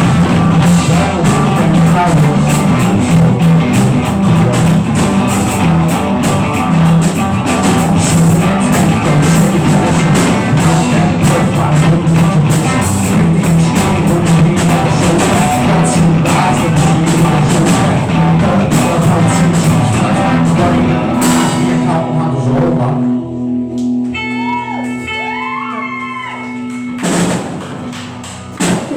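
Rock band improvising with drum kit, guitar and singing. About 22 seconds in, the drums and full band stop, leaving a few held notes with some bending pitches ringing out as the jam ends.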